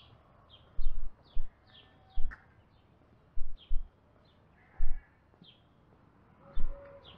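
Small birds chirping outdoors, short high falling calls repeated every half second or so, over a few loud dull low thumps. About six and a half seconds in, a dove starts cooing.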